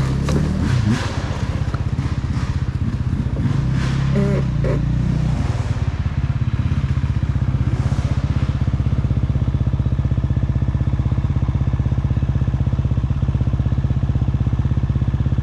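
Dirt bike engine running with the throttle changing and some clatter for the first five seconds or so, then settling to a steady idle from about six seconds in.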